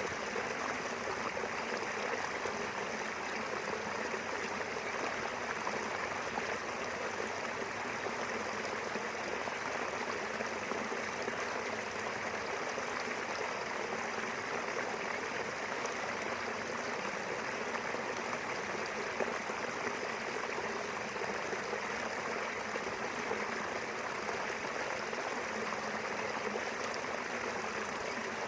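Small river flowing steadily over stones, a continuous rushing and trickling of running water.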